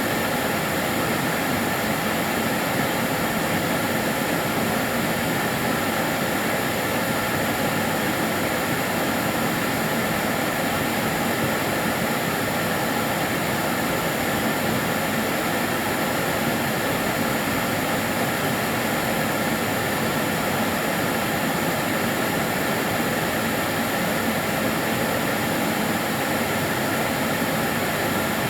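Karcher DS 6 Premium water-filter vacuum cleaner running continuously: a steady, unchanging motor whine and rush of air.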